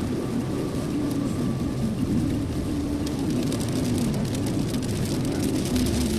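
Steady road and engine noise of a car driving, heard from inside the cabin, with many small taps of rain hitting the car from about three seconds in.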